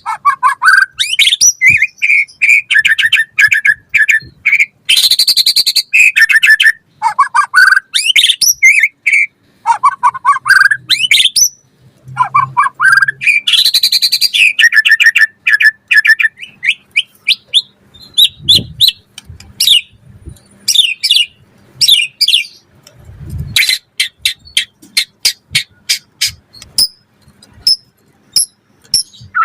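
White-rumped shama singing a long, varied song of loud whistled phrases, rapid repeated notes and rising sweeps. A fast run of sharp, clicking notes comes in the last few seconds.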